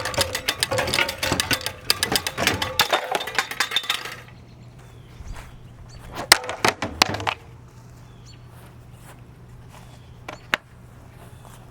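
A ceiling fan being smashed: rapid clattering and clinking of metal and glass parts for about four seconds, then after a pause a quick burst of sharp knocks and clinks, and one more click later, over a low steady hum.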